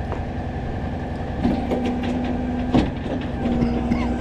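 Rollback tow truck running while its hydraulic bed slides down. A steady hydraulic whine sounds in two stretches over the engine rumble, broken by a few clunks from the bed.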